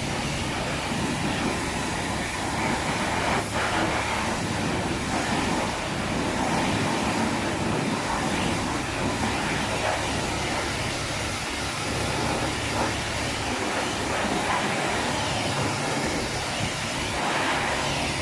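Steady rushing of water sprayed against a Pajero's body during a car wash.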